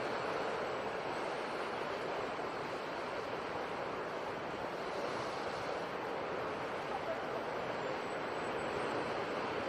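Sea surf: a continuous rush of waves, easing a little in the middle and swelling again near the end.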